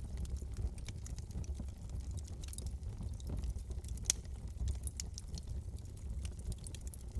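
Wood fire crackling in a fireplace: irregular small snaps and pops over a low steady rumble of the flames, with one sharper pop about four seconds in.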